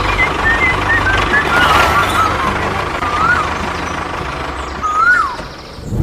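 Steady low engine-like rumble of a truck running, with short high warbling chirps over it; the sound drops away briefly near the end.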